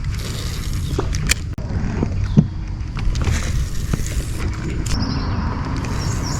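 Steady low rumble with scattered sharp clicks and creaks as a lure is cast and reeled back from a kayak.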